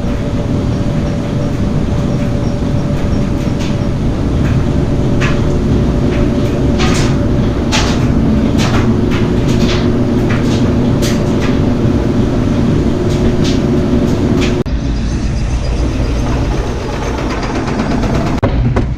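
Steady low rumble of a moving vehicle with a constant hum, broken by a string of sharp clicks and knocks in the middle. About fifteen seconds in, the sound changes abruptly to a different, hissier rumble.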